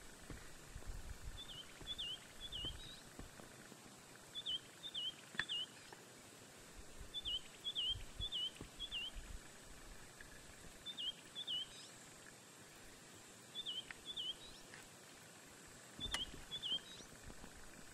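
A bird calling over and over in groups of two or three short, high notes, each note dipping and rising quickly in pitch, a group every second or two.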